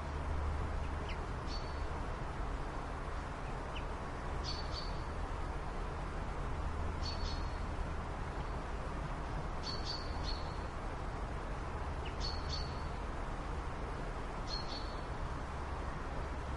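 A bird calling a short high chirp over and over, about every two and a half seconds, over a steady low rumble.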